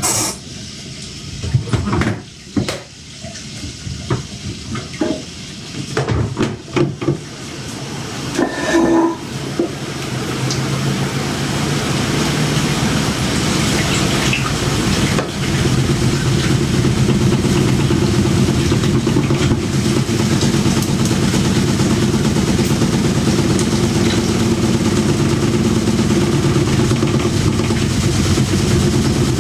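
Washing machine in its spin cycle. Irregular knocks and thuds for the first several seconds, then a loud mechanical hum and rattle that builds up over about ten seconds and holds steady. The load is off balance, so the machine shakes hard enough to walk across the floor.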